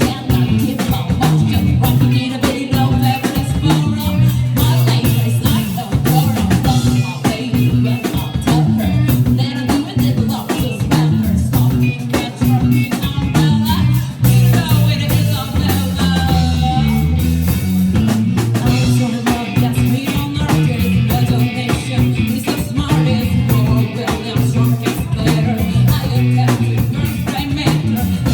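A live band playing a song: sung vocals over drum kit and guitar.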